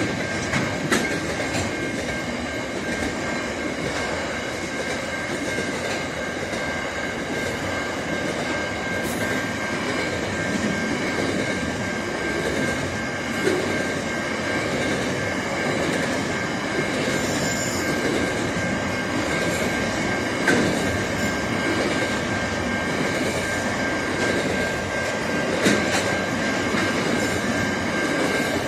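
Double-stack container freight train rolling past: a steady rumble of wheels on rail, with a continuous high squeal over it and a few sharp clunks from the passing cars.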